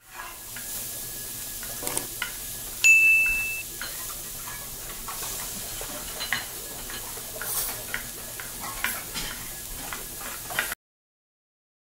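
Frying sizzle: a steady hiss with scattered light crackles and ticks. A single high ding, the loudest sound, rings briefly about three seconds in, and the sound cuts off suddenly near the end.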